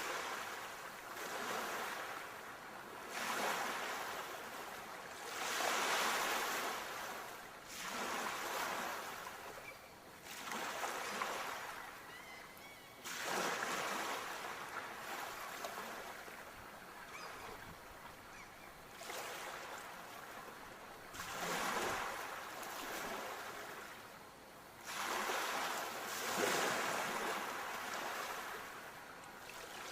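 Ocean waves breaking and washing up the shore, a rushing surf that swells and fades every two to four seconds.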